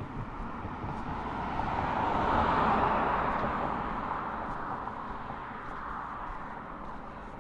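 A car driving past: its noise swells to a peak about two and a half seconds in, then fades away.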